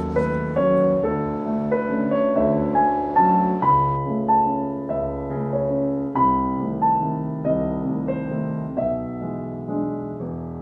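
Soft, gentle piano music: a slow melody of single notes over sustained lower chords.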